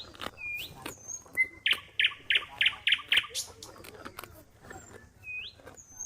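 Birds calling: short whistled notes that rise sharply in pitch, and a run of about six quick notes, roughly four a second, a little under two seconds in, with scattered faint clicks.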